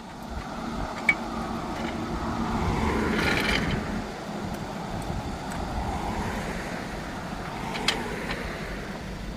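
A car driving, with steady engine and road rumble that swells briefly around three seconds in. Two sharp clicks come about a second in and near the end.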